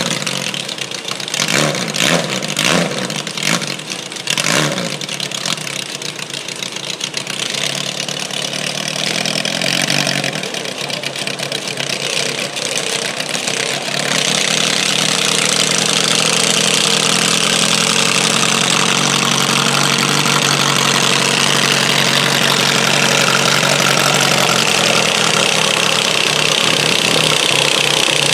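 Garden tractor engine running. It gets louder about halfway through and then runs steady, with a few sharp knocks in the first few seconds.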